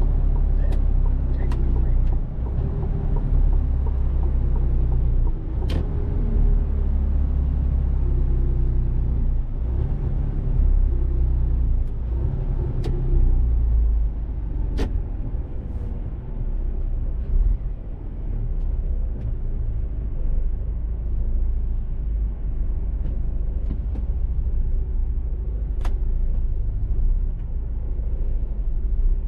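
Mercedes-Benz Actros truck's diesel engine and road rumble while driving, the engine note rising and falling with speed changes, with a few sharp clicks scattered through.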